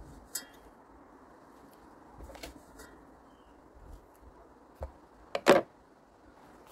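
A few light clicks and knocks of kitchen handling over a quiet room background. The loudest is a short double knock about five and a half seconds in.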